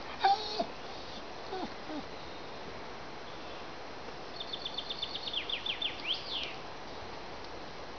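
Songbird singing about four seconds in: a quick run of high repeated notes, then a few downward-sliding notes, lasting about two seconds, over a steady outdoor background hiss. A brief loud sound with short pitched tones just after the start.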